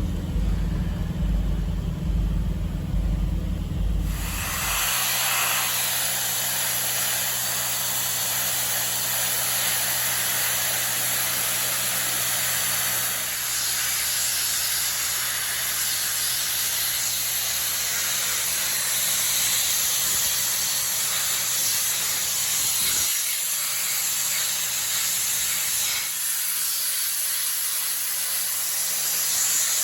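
Abrasive media-blasting gun hissing steadily as it strips a BMW R1200 engine casing, starting about four seconds in after a low machine rumble.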